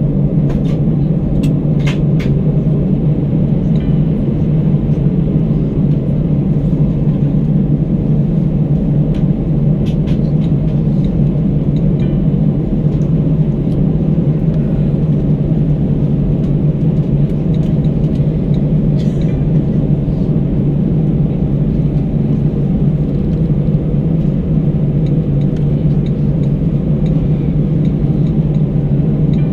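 Airbus A319 cabin noise heard from a window seat: a steady low rumble of the engines and airframe that holds at an even level. There are a few faint clicks in the first couple of seconds and again about ten seconds in.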